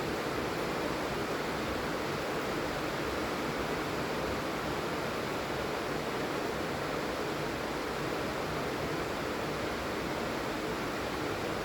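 Steady heavy rain falling, an even hiss without distinct drops or breaks.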